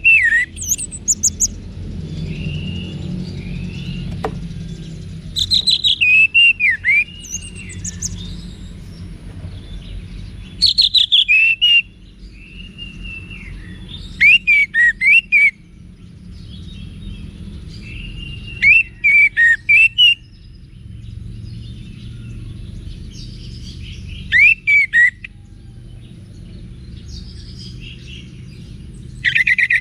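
Orange-headed thrush singing: short, loud phrases of sweeping whistles and rapid chattering notes, repeated about every four to five seconds, over a low steady rumble.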